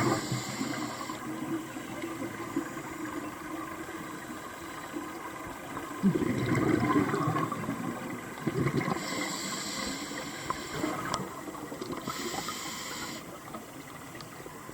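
Scuba regulator breathing underwater: short hissing inhalations near the start and around two-thirds of the way through, alternating with bubbly rumbling exhalations in the middle.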